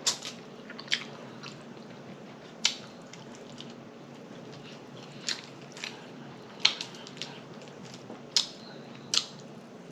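A person chewing food close to the microphone, with scattered wet mouth smacks and clicks at uneven intervals over a faint steady hiss.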